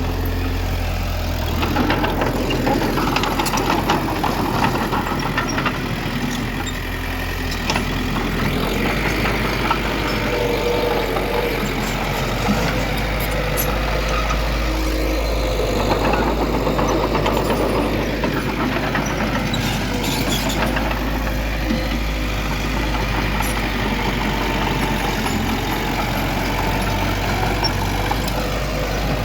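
Diesel engines of earthmoving machinery running steadily under load, with a few short clanks.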